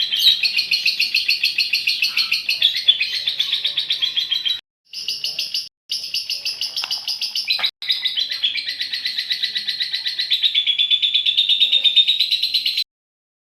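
Female lovebird's long chattering song (ngekek panjang), a fast unbroken run of high notes at about seven a second. It drops out briefly three times in the middle and stops abruptly about a second before the end.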